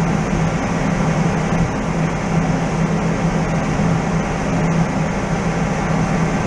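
Steady machinery drone with a constant low hum, holding an even level throughout.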